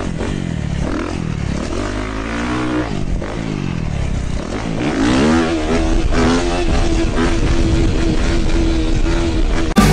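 Dirt bike engine revving, its pitch rising and falling several times, then held at steady high revs for the last few seconds.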